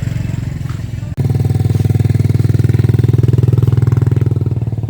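A small engine running with a steady, rapid pulsing note that jumps up in level about a second in and then holds steady.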